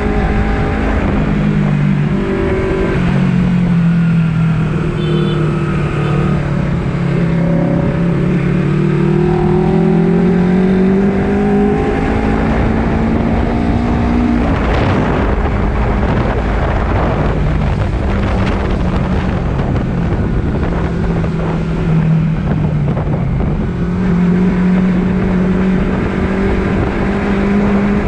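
Honda CBR250RR sport bike engine heard while riding, its pitch climbing steadily as it accelerates, dropping back and climbing again with throttle and gear changes. A brief rush of noise cuts in about halfway through.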